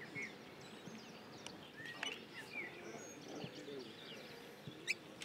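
Birds chirping in short calls over faint outdoor ambience, with a single sharp click near the end.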